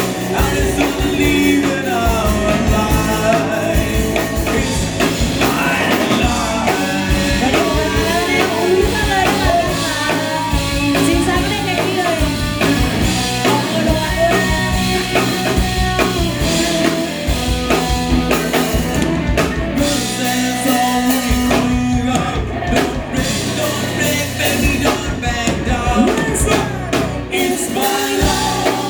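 A rock band playing a song, a singer's voice over drums and other instruments.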